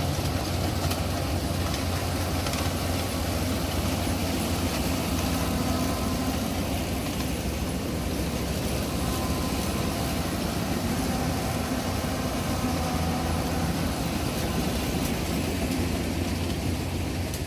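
Yanmar YH850 combine harvester running steadily while cutting rice: a constant low engine hum.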